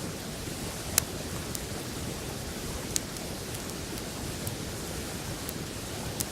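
Wood campfire crackling with a few sharp pops, the loudest about a second in and another near three seconds, over the steady rush of a flowing river.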